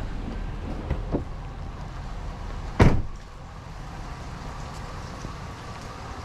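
A vehicle door slams shut once, sharply, about three seconds in, after a couple of light clicks of the latch and handle about a second in, over a steady hiss.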